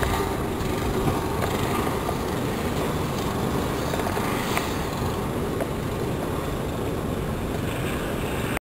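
Wind buffeting the microphone during a snowstorm: a steady, heavy low rumble that cuts off abruptly near the end.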